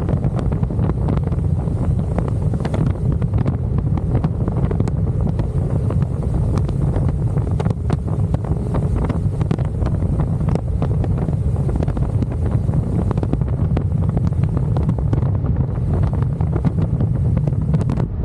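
Wind buffeting the microphone of a camera on a moving motorcycle: a steady heavy low rumble with a scattering of faint crackles.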